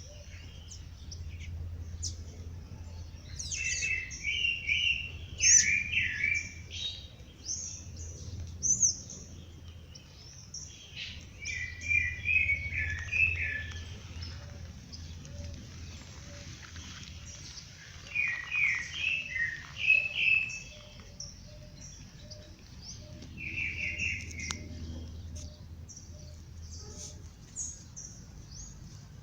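Songbirds singing: one bird sings four bursts of quick, warbling notes, while high thin chirps from other birds come and go throughout. A low steady hum runs underneath.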